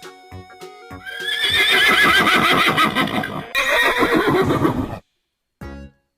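A horse whinnying: one long, quavering neigh lasting about four seconds, with a brief break partway through. There are a few short knocks just before it and music underneath.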